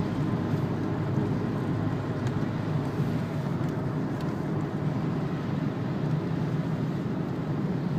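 Steady cabin noise of a Renault Laguna wagon's 2-litre turbo diesel running at an even pace on a wet track: a low engine drone with tyre noise.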